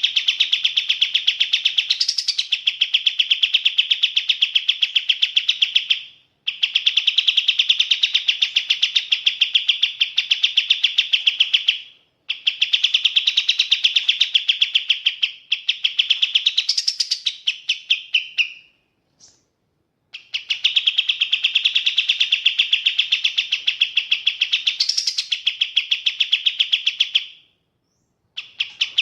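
Kapas tembak songbird calling in long, fast chattering runs of rapidly repeated chirps. The runs last about six seconds each, four of them with short pauses between, plus a single brief chip in one gap.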